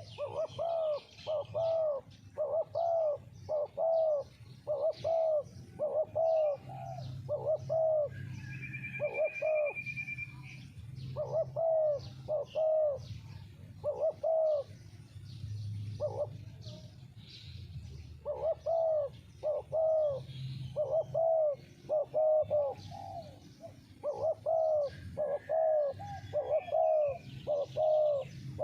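Spotted doves cooing: a long series of low, evenly spaced coo notes, about two a second, in runs broken by short pauses. Another bird gives a short higher trill about eight seconds in.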